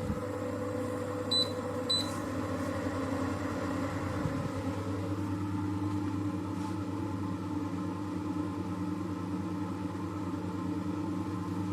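Two short high electronic beeps about half a second apart, typical of a humidifier's touch control panel, over a steady hum.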